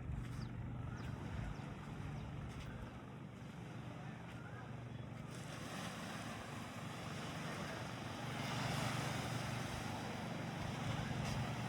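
A motor running with a steady low hum, and a rushing noise that builds about halfway through and peaks near the three-quarter mark.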